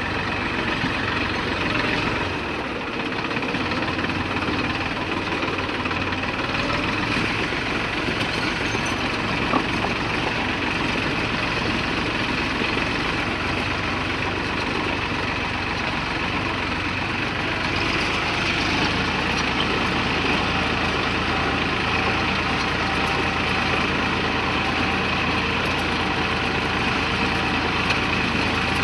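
Deutz-Fahr tractor's diesel engine running steadily, with one brief sharp knock partway through.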